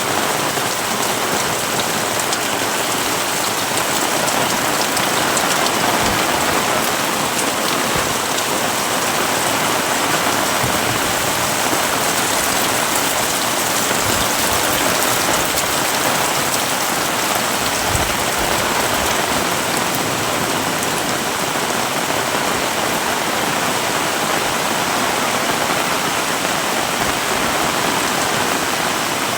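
Heavy tropical rain pouring steadily, a dense even hiss of rain on surfaces, with a few faint low knocks from heavier drops.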